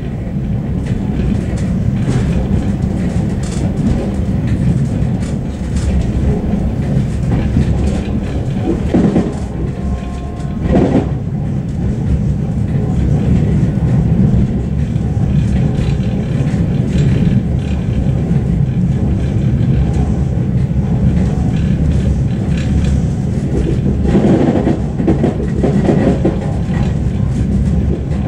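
Suburban passenger train running, heard from inside the carriage: a steady low rumble with irregular clatter of wheels over rail joints.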